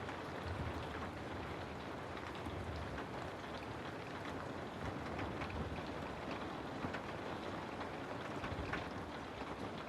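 Steady rain falling, an even hiss with scattered drops ticking on surfaces and a soft low rumble underneath.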